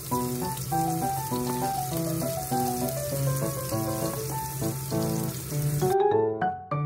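Background music over food sizzling in a hot pan; the sizzling cuts off abruptly about six seconds in while the music plays on.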